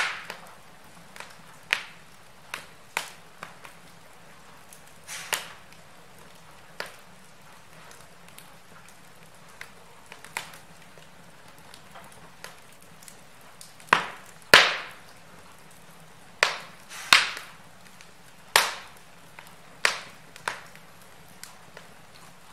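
Wood fire in a fireplace crackling: irregular sharp pops and snaps over a faint steady hiss, with the loudest cracks clustered about two-thirds of the way in.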